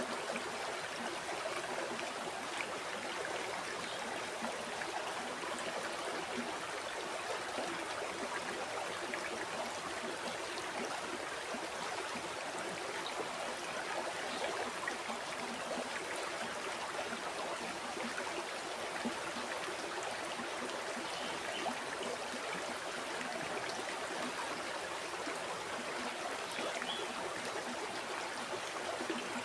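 Flowing river water, a steady, even rushing.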